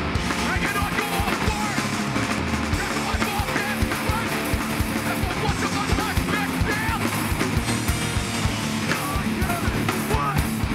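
A live hardcore punk band playing loud: distorted guitars and bass over fast, steady drum hits.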